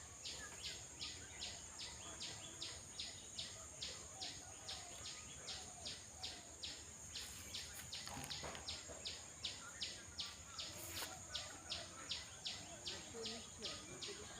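Insects calling: a steady high-pitched drone under a regular chirp repeating about twice a second, with faint lower chirps and calls mixed in.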